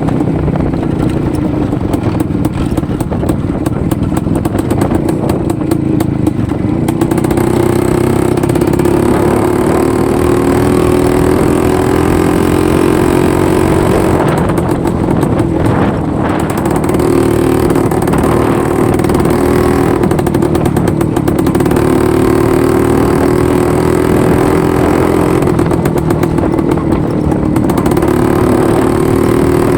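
IZh-49 single-cylinder two-stroke motorcycle engine running under way, its note climbing slowly in several long stretches and falling back between them as the bike picks up speed and eases off.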